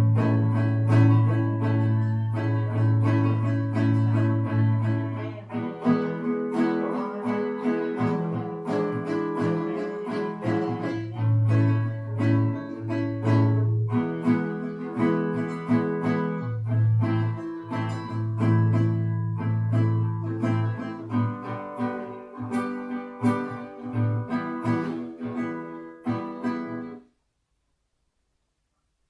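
Acoustic guitar being played, a continuous run of chords and single notes that stops abruptly a couple of seconds before the end.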